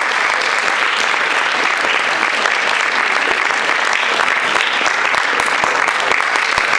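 Applause: many hands clapping in a dense, steady patter that holds level without letting up.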